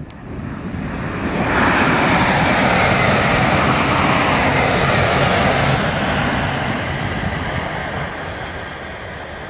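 A TGV Duplex double-deck high-speed train passing at speed: a loud rushing noise that builds over the first two seconds, holds, then slowly fades as the train goes by.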